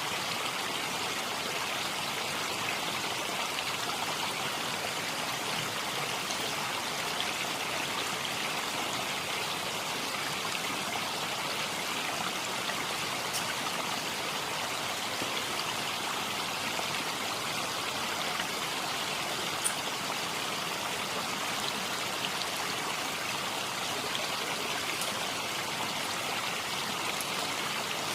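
Steady rushing hiss of water, even in level throughout, with a few faint clicks scattered through it.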